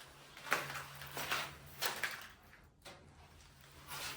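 A few footsteps scuffing on a hard, littered floor, about three in the first two seconds, over a faint steady low hum.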